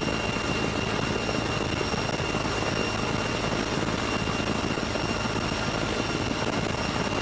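Military helicopter running steadily: an even rushing noise with a constant high-pitched whine over it, no gunfire.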